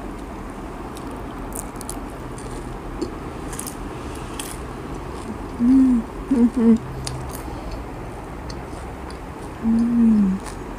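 Chewing a crispy fried banana spring roll, with faint crunching clicks, and closed-mouth "mmm" hums of enjoyment: a short broken run of hums about six seconds in and one longer falling hum near the end.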